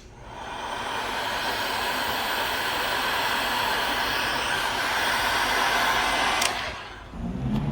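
Heat gun blowing hot air steadily for about six seconds, softening the back-glass adhesive on the phone frame, then cutting off with a click.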